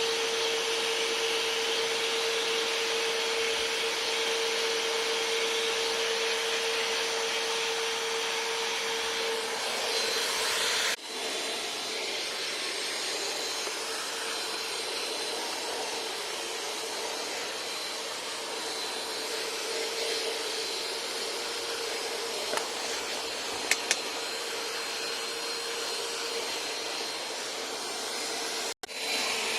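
Vacuum cleaner running steadily, with a constant motor whine over the rush of air. The sound breaks off for an instant twice, about eleven seconds in and near the end, and a couple of light clicks come about three-quarters of the way through.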